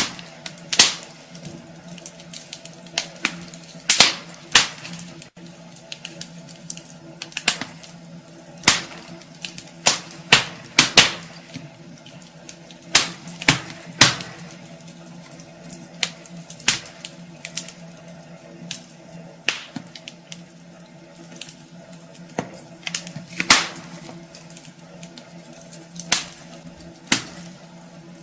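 Wood fire crackling in a fireplace: irregular sharp pops and snaps from the burning logs, some louder than others, over a steady low background.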